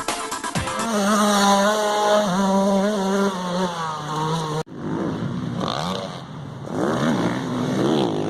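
Small two-stroke youth motocross bikes running on a track. First one engine holds at high revs. After a sudden cut about halfway through, engine pitch climbs and drops again and again as the bikes accelerate and shift gears.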